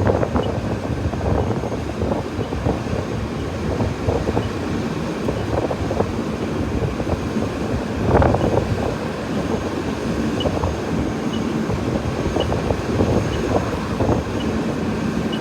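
Steady low rumble of a running vehicle engine, with wind on the microphone and many short crackles and pops throughout, swelling louder about eight seconds in.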